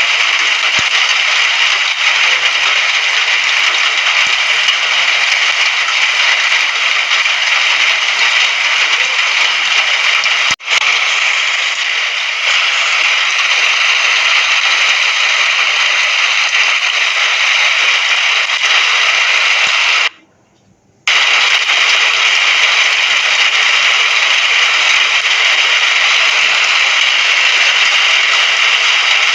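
Steady rain, an even hiss. It cuts out for an instant about ten seconds in and drops out for about a second around twenty seconds in before resuming.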